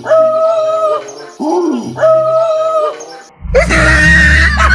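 A dog howling twice, two drawn-out calls that rise and then hold a steady pitch, followed about three and a half seconds in by a sudden loud burst of rushing noise with a deep rumble.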